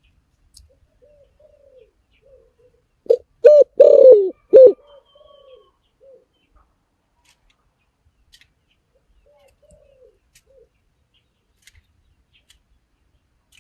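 Spotted dove cooing: faint soft coos, then about three seconds in a loud phrase of several quick coos, followed by quieter trailing coos and more faint coos later on.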